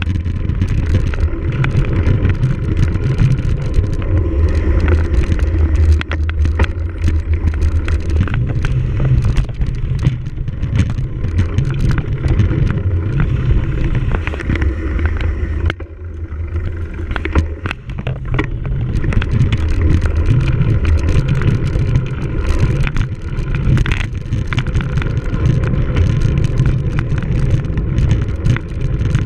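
Cyclocross bike racing over rough ground: wind buffeting the microphone in a heavy low rumble, with constant clattering and rattling from the bike. It eases briefly a little past halfway.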